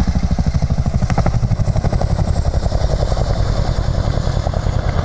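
CH-47D Chinook tandem-rotor helicopter running, its rotors giving a rapid, even beat.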